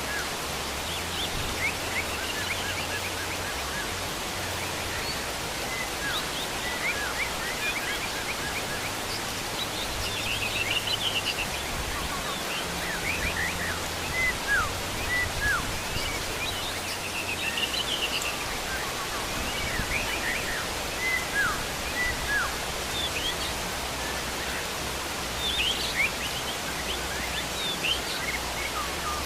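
Heavy rain falling as a steady hiss, with wild birds calling throughout in short chirps and quick twittering notes.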